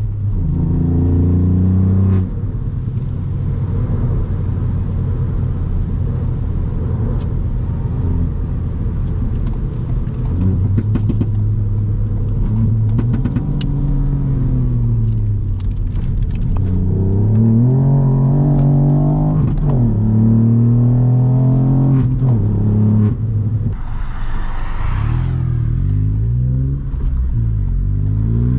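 Ford Fiesta ST Mk8's turbocharged 1.5-litre three-cylinder engine through a Milltek exhaust while driving, the revs rising and falling again and again through acceleration, gear changes and lifts off the throttle. Scattered sharp crackles come in the middle, and a brief hissing rush comes late on.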